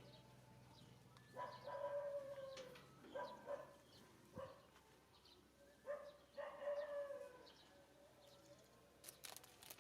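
An animal's calls, several in a row, each up to about a second long, with a crackle of clicks near the end.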